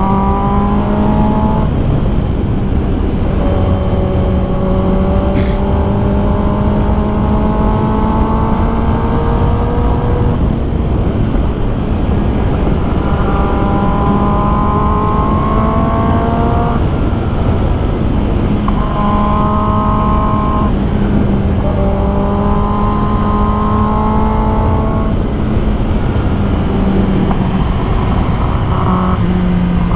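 Kawasaki ZX10R's inline-four engine running at speed under heavy wind rush, its note holding steady with slow rises in pitch several times.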